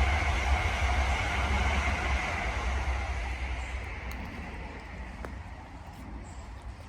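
Train running on the rails, a low rumble with a steady whine over it, fading as it moves away.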